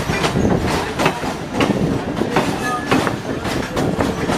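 Train running on the rails, its wheels clattering over the rail joints in a run of irregular clacks over a steady rumble, with a few brief squeals.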